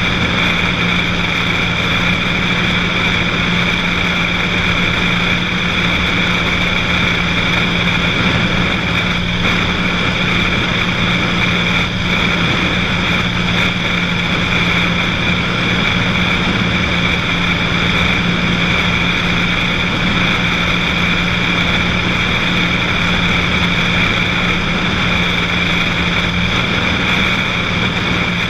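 Cessna 182's piston engine and propeller droning steadily in level flight, a constant hum with no change in pitch or loudness.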